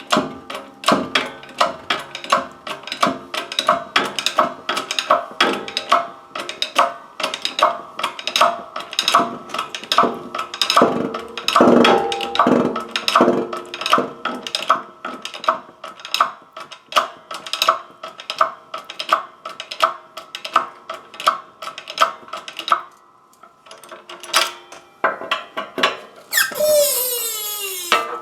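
Hammer blows on steel, a couple a second, each strike leaving a metallic ring. Near the end comes a brief falling squeal.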